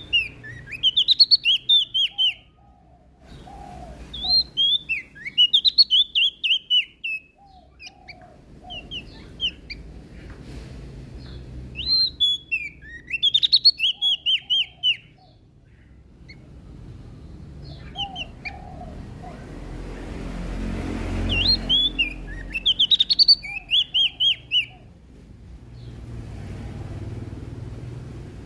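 Prenjak daun Lombok (leaf warbler) singing: repeated phrases of quick, high, descending notes, each a second or two long and a few seconds apart, with softer lower notes between them.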